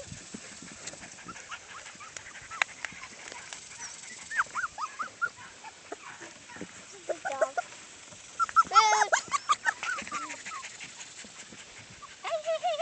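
Labrador retriever puppies whining and squealing in short, high, wavering cries, louder and thicker in a cluster about nine seconds in.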